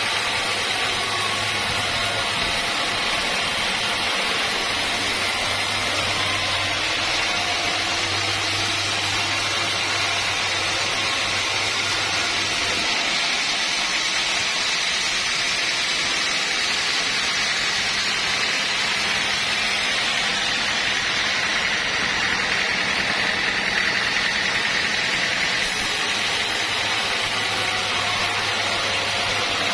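Sawmill machinery running steadily: an even, unbroken machine noise, with a low hum under it that drops out about halfway through and comes back near the end.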